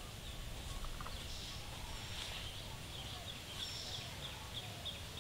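Birds chirping, with a run of short, even chirps about three a second in the second half and a few higher calls in between, over a faint low rumble of wind.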